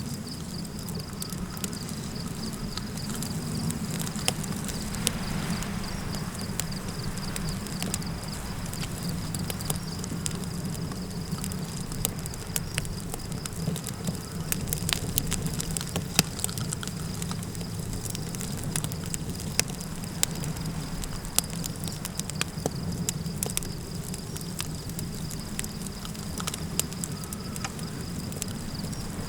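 Campfire crackling, with irregular sharp pops and snaps over a steady low rumble of wind. A thin, steady high-pitched insect trill runs underneath.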